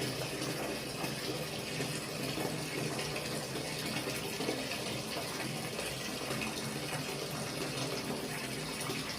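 Water running steadily from a tap, an even rushing hiss with no break.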